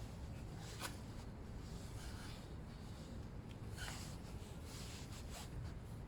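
Faint handling noises from hand work: a few soft, short rustles or scrapes about a second in, near four seconds and just past five seconds, over a low steady background hum.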